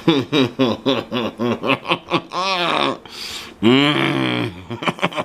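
A man laughing: a quick run of short chuckles, then two longer drawn-out vocal sounds that rise and fall in pitch.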